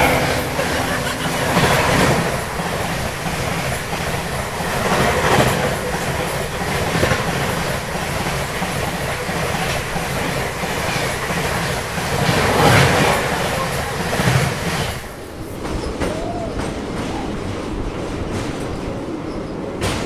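Train running at speed, heard at an open coach door: wheels clattering on the track and a loud rush of air as another train, hauled by an electric locomotive, passes close alongside. The rush drops off about fifteen seconds in as the passing train clears.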